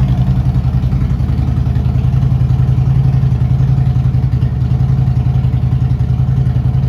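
Harley-Davidson Ultra Limited's air-cooled Twin Cam 103 V-twin idling steadily, with an even pulsing beat.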